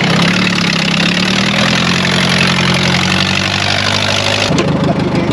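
An engine idling steadily with a low, even hum, its note changing abruptly about four and a half seconds in.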